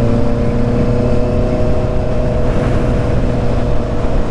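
Honda CB650's inline-four engine running at a steady speed while riding, with heavy wind rumble on the microphone.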